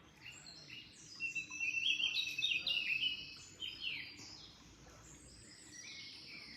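Several songbirds chirping and trilling, busiest and loudest from about a second in to four seconds, over a faint steady background of flowing water.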